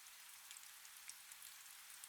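Faint, steady rain: a soft hiss with scattered ticks of individual drops.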